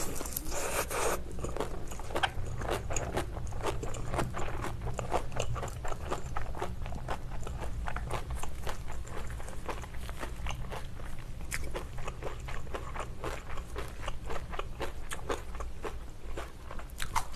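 Close-miked biting and chewing of crunchy kimchi: a dense run of crisp crunches as chunks of chonggak (ponytail radish) kimchi are chewed.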